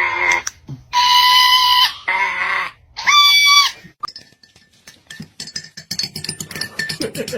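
Parrot giving four loud, harsh squawks about a second apart, followed by a few seconds of rapid clicking.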